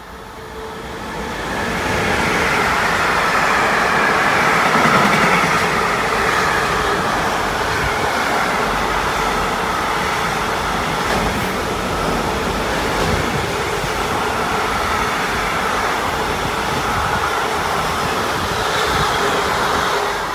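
Freight train with a locomotive at the head running through a station, followed by a long string of loaded container wagons. The noise swells over the first two seconds as the locomotive comes through, then holds steady as the wheels of the wagons roll past on the rails.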